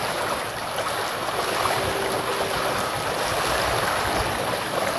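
River water rushing steadily over rapids.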